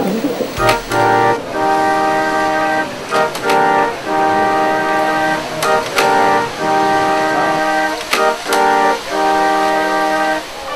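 Music: an electronic organ playing held chords, with drum or percussion hits every second or two.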